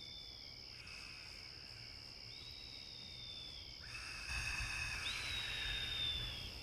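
Outdoor night ambience: a steady, high insect chirring, with three thin whistled calls that each fall slightly in pitch, about a second in, about two and a half seconds in and about five seconds in. A soft background hiss grows louder from about four seconds in.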